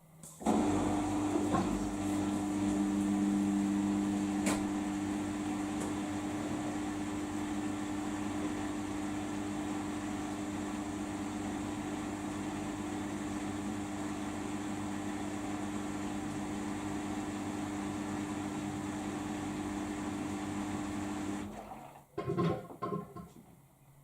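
Samsung washing machine's drain pump running with a steady hum at the start of a spin programme, cutting off suddenly near the end, followed by a brief clatter.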